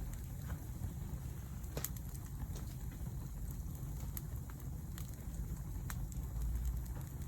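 Campfire burning, crackling with sharp pops about once a second over a steady low rumble.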